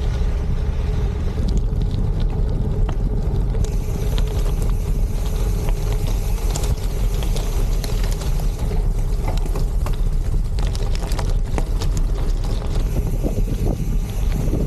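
Wind buffeting the microphone over the steady low rumble of a gravel bike's wide tyres rolling on a gravel trail, with scattered small clicks and rattles of loose stones.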